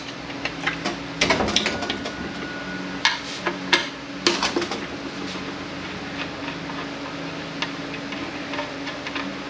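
Open-end wrench working the cooler line fittings on an automatic transmission case, with a few sharp metal clinks in the first half and fewer after that. A steady low hum runs underneath.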